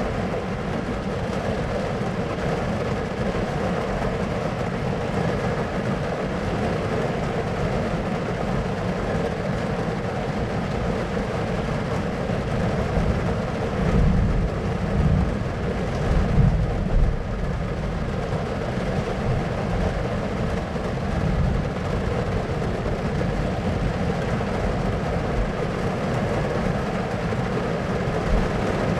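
Thunderstorm ambience: a steady wash of rain noise, with low thunder rumbles swelling a few times around the middle.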